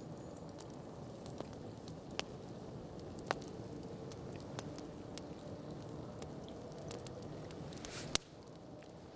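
Campfire crackling, with a steady low hiss and scattered sharp pops of burning wood, the loudest pop about eight seconds in.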